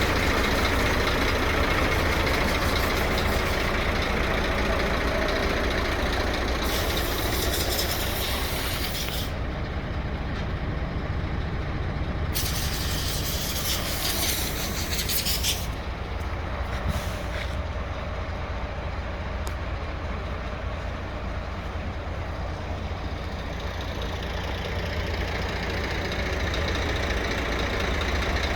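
Scania P380 dump truck's diesel engine running steadily, with two long hisses of compressed air from its air system, each lasting about three seconds, one about a quarter of the way in and one nearly halfway.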